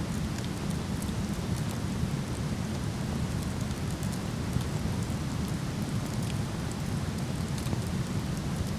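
Steady, low rushing of a waterfall, with scattered small crackles and pops from a wood campfire.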